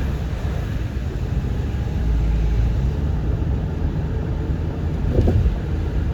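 Steady low rumble of a car running on the road, heard from inside the vehicle.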